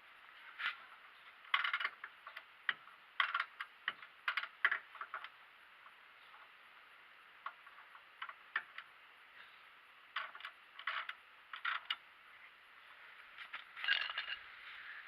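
Irregular metallic clicks and clinks of hand tools and parts being handled, in short clusters with gaps between them and a denser group near the end.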